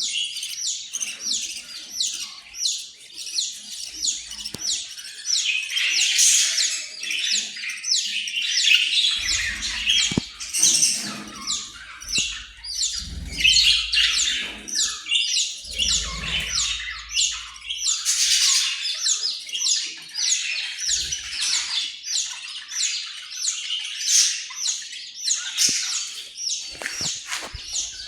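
Pet Australian parrot chattering: a continuous stream of short, high chirps and squawks.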